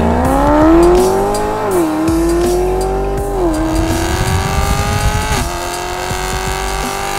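Mercedes-Benz SLS AMG's 6.2-litre M159 V8, fitted with stepped equal-length headers and a stainless centre exhaust with X-pipe, accelerating hard at wide open throttle. The engine note climbs steadily, and its pitch drops sharply three times as the car upshifts, about every two seconds.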